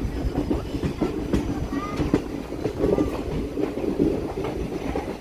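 Indian Railways passenger train running, heard from aboard a coach: a steady rumble of the wheels with repeated clicks and clatter over the track.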